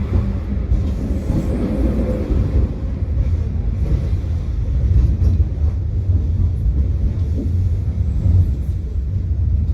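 Tram running along the track, heard from inside the car: a steady low rumble of wheels and running gear, with a few faint clicks.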